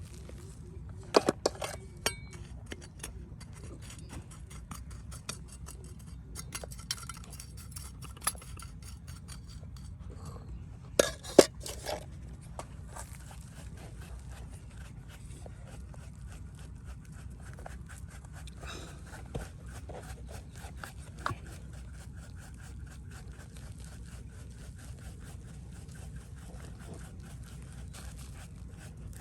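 Hard objects clinking and scraping, with a few sharp knocks about a second in and a louder cluster around eleven seconds, over a steady low rumble.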